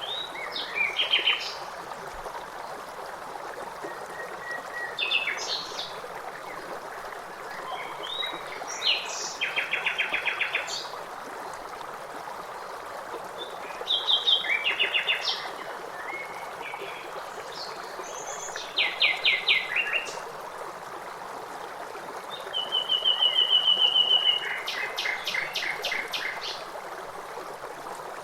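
A songbird repeating short songs, each ending in a fast trill, about every four to five seconds, over the steady rush of a running stream.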